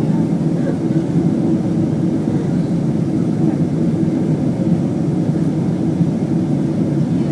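Steady low rumble of a Boeing 767-300ER's engines and airflow, heard from inside the passenger cabin.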